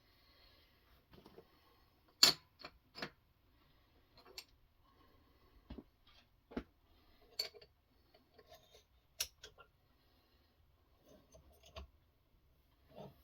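Irregular light clicks and knocks, about a dozen, with one sharper knock a couple of seconds in: hard parts of a guided knife-sharpening system being handled.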